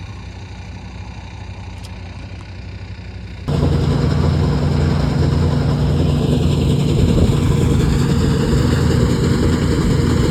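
Small plot combine harvester's engine running steadily as it works. About three and a half seconds in, the sound jumps abruptly to a louder, fuller running sound, as though heard much closer.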